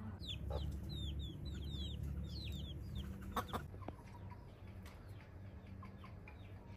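Birds chirping: a quick run of short, high, falling chirps for about three seconds, then only a few. A couple of sharp clicks come about three and a half seconds in, over a low steady hum.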